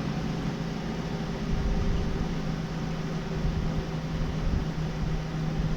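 LG inverter window air conditioner running: a steady rush of blower air with a low hum. Its fan has just been switched down to speed 2.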